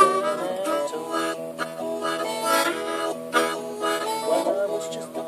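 Harmonica playing held and bending notes over a guitar strummed in a steady rhythm, live country-blues music.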